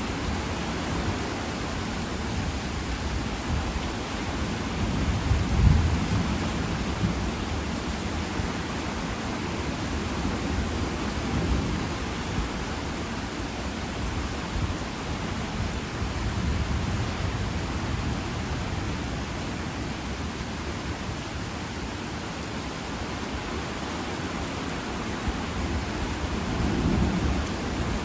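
Heavy rain falling steadily during a thunderstorm, with low rolls of thunder swelling about five seconds in and again near the end.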